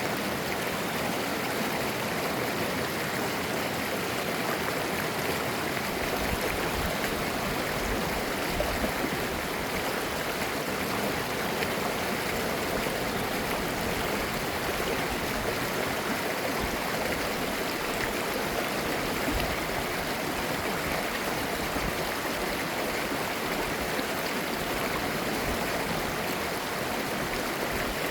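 Mountain stream water flowing and babbling over rocks, a steady, even rushing.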